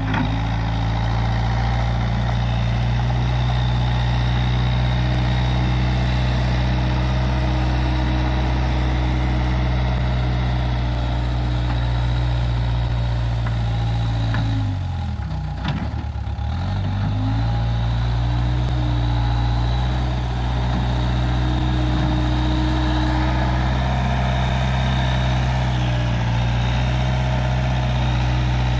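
Case 580G backhoe loader's diesel engine running steadily. About halfway through, the engine speed sags for a second or two and then climbs back.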